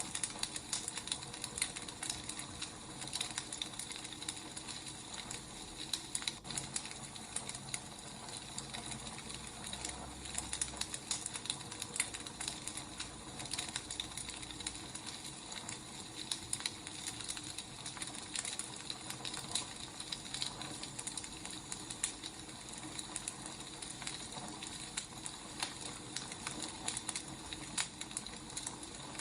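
Wood fire burning, with irregular crackles and pops over a steady hiss.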